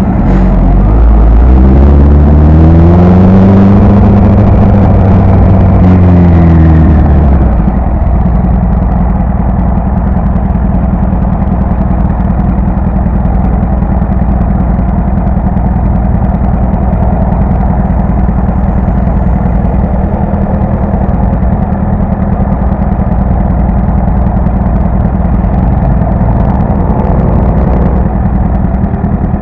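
Motorcycle engine rising in pitch and then falling back over the first several seconds, then running on at a steady low note.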